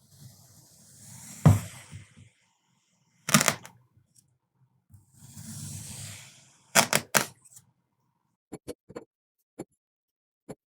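Kinetic sand being cut with a blade: a grainy crunching as it presses down through the sand, twice, each cut ending in a sharp knock on the surface below, then a few light taps near the end.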